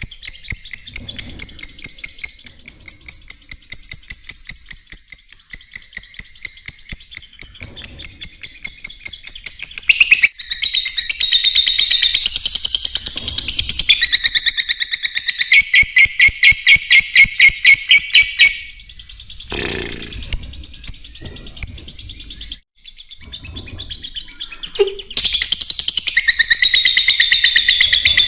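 Lovebirds chirping in rapid, high-pitched repeated calls, about four a second. About two-thirds of the way through, the chirping thins out and drops in level for a few seconds, then picks up again near the end.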